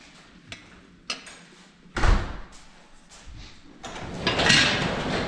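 A couple of clicks and a heavy thump, then from about four seconds in a loud, rattling rumble of an overhead garage door rolling open.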